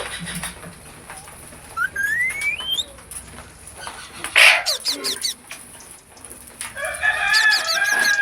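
Bird calls: a rising whistled note, a loud harsh squawk with quick falling notes about halfway through, and a long, held crow-like call near the end.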